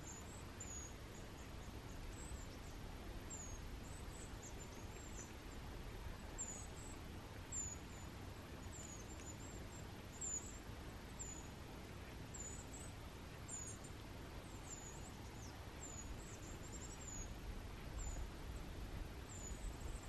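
Small forest birds giving short, thin, very high-pitched chirps, many in a row, over a faint low rumble.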